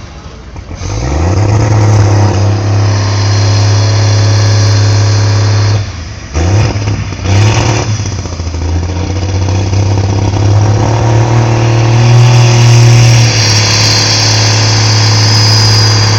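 Modified pulling tractor's engine revving up hard and held at high revs, dropping out about six seconds in. It gives two short blips of throttle, then runs at high revs again until it falls away near the end: a pull that runs into trouble at the start and is abandoned.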